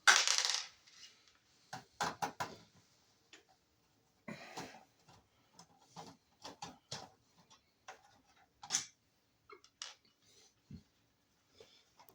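Irregular small clicks and light knocks of plastic and metal parts and tools being handled, with a short scraping rustle right at the start.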